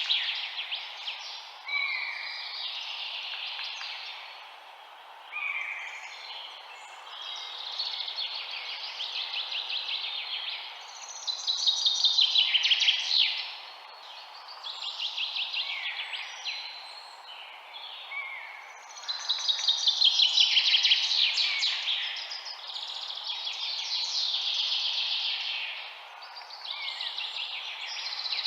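Songbirds singing: rapid trilled phrases and short chirps repeating every few seconds, louder bursts twice, over a steady background hiss.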